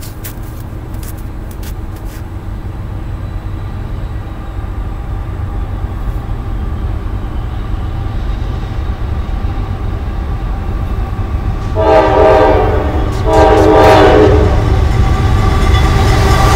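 CSX freight train's diesel locomotive approaching, its low rumble growing steadily louder. Two horn blasts sound in the last third, about a second and a half apart, and the train comes louder still near the end as it draws level.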